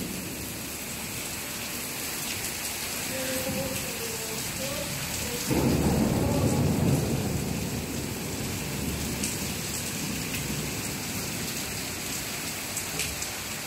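Heavy rain pouring steadily onto pavement. About five and a half seconds in, a low rumble of thunder starts suddenly and lasts about two seconds.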